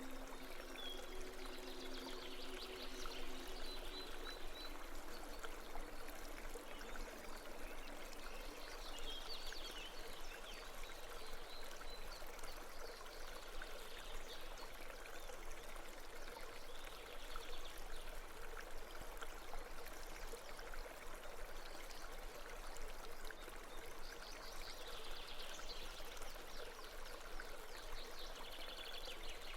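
Steady babbling stream of running water, with a held low music chord fading out in the first few seconds.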